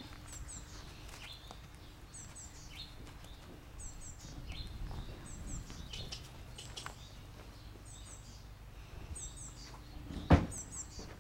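Small birds calling, a short high double chirp repeated every second or two over a faint outdoor background. About ten seconds in comes one loud thud as the horse's hoof strikes the horse-trailer ramp.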